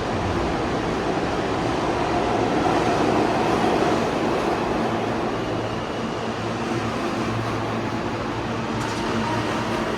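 New York City Subway train running through an underground station: a steady rail rumble with a constant motor hum.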